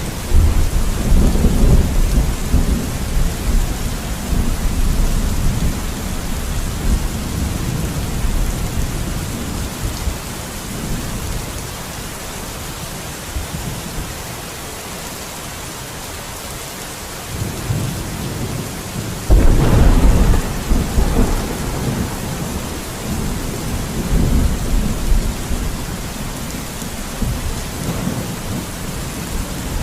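Steady rain with rolling thunder. A long low rumble starts just after the beginning and fades over about ten seconds, and a louder clap breaks about two-thirds of the way through, rumbling on to the end.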